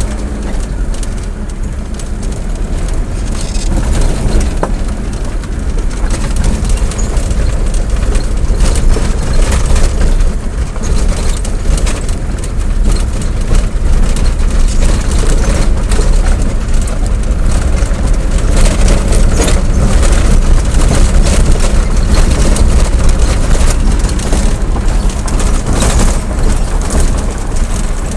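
Steady deep rumble and road noise of a moving vehicle, growing louder a few seconds in and then holding.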